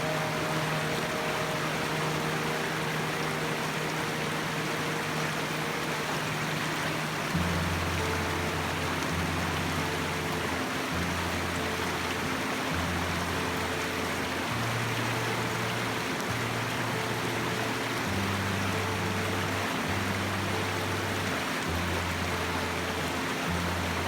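Mountain stream rushing steadily, under background music of slow held low notes; a deeper bass line of notes changing about every second comes in about seven seconds in.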